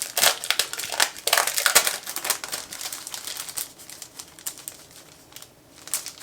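Sticker kit sheets and their packaging handled and unwrapped: an irregular crinkling rustle, busiest in the first half and thinning out later.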